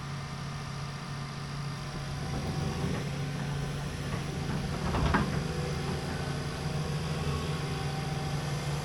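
Large excavator's diesel engine running steadily at idle, getting a little louder from about two seconds in, with one brief sharp noise about five seconds in.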